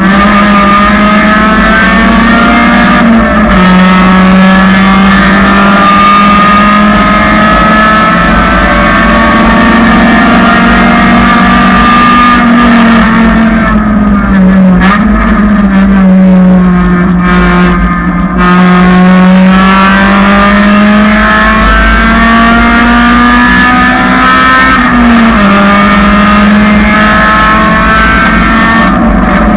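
1999 Honda Civic's four-cylinder engine running loud and hard at high revs, its pitch climbing slowly and then dropping sharply at a shift, three times.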